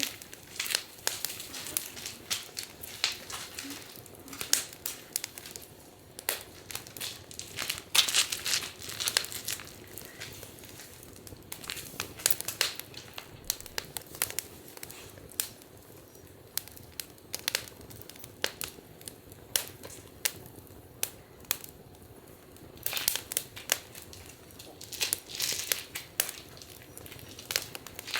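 Wood fire crackling, with irregular sharp pops that come in denser clusters now and then.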